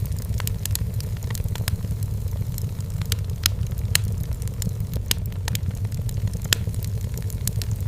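Firewood burning in a fireplace, crackling with irregular sharp pops over a steady low rumble, a few louder pops around the middle.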